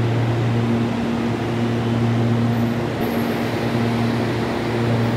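Electric commuter train running along the platform: a steady low hum over an even rolling rush, the hum dropping out briefly every second or two.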